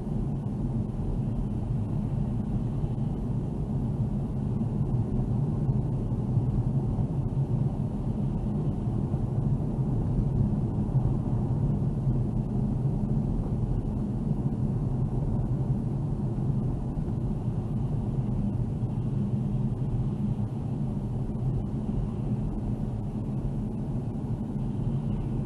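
A car driving steadily, its engine and tyres making a low, even rumble that holds without a break.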